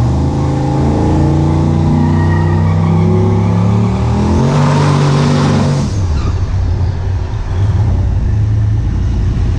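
Drag-racing vehicle launching and accelerating hard down the strip. The engine pitch climbs, steps once about four seconds in as it shifts, and swells to a rush as it goes by, then drops away about six seconds in.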